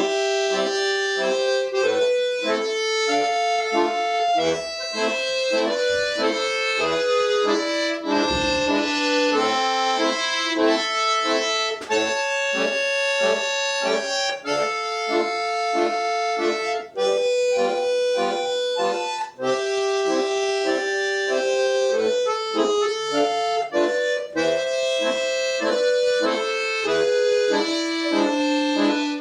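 Solo accordion playing an arrangement of a Russian folk tune, a melody over sustained chords, with short breaks between phrases.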